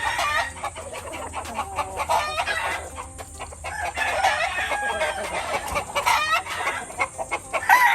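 A flock of chickens clucking and calling over one another, with a rooster starting a long crow near the end.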